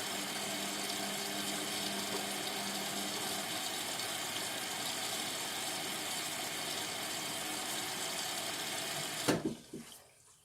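Indesit washing machine taking in water early in its sport cycle: a steady rush of water with a faint hum. About nine seconds in it cuts off suddenly with a short thump, as the inlet valve closes.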